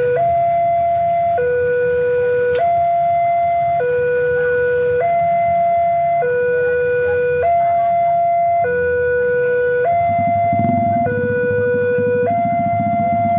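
Railway level-crossing warning alarm sounding a two-tone signal, alternating between a higher and a lower tone, each held for a little over a second. About ten seconds in, a low engine rumble rises beneath it.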